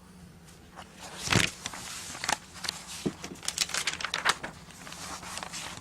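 Meeting-room noise between statements: papers rustling and scattered small knocks and clicks at irregular intervals, over a low steady hum.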